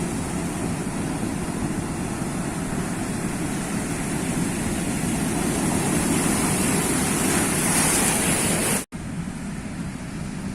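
Sea surf: a continuous rushing of waves that swells to a peak, then cuts off abruptly for an instant and carries on quieter.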